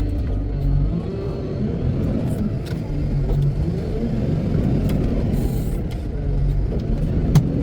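Heavy diesel engine of construction machinery running under shifting load, its pitch changing, with one sharp click near the end.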